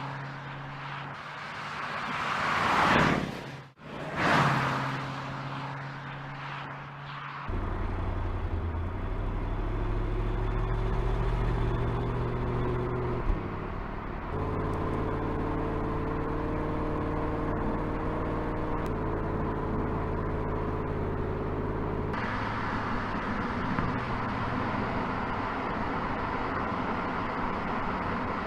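Porsche Panamera Turbo's twin-turbo V8 on track: loud passes with a whoosh that rises and falls in the first seconds, then steady engine running whose pitch steps up and down several times.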